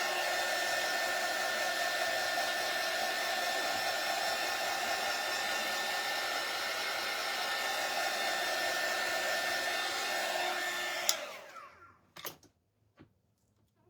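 Handheld hot-air blower running steadily with a constant whine, drying craft pieces before they are peeled off. About eleven seconds in it is switched off with a click and winds down, followed by a few light taps.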